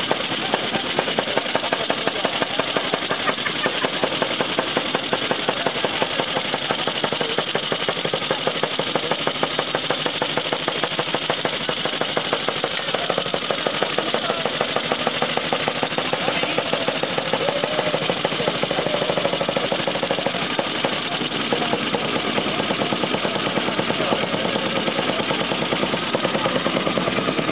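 Čechie-Böhmerland vintage motorcycle's big single-cylinder four-stroke engine idling steadily, with a rapid, even beat of firing pulses.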